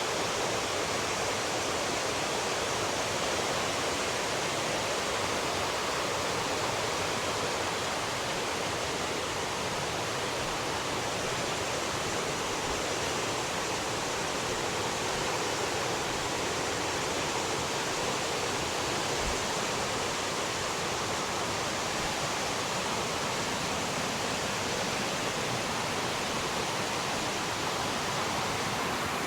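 Fast-flowing river water rushing steadily, an even wash of noise with no let-up.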